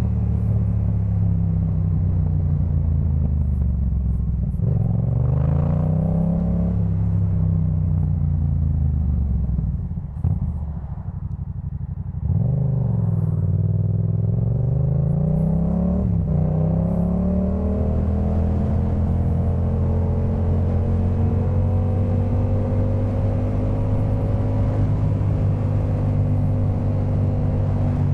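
Yamaha MT-07's 689 cc parallel-twin engine through a Jeskap K4 full aftermarket exhaust, revving up and down through gear changes while riding. There is a brief throttle-off dip about ten seconds in, then a steady, slowly building engine note.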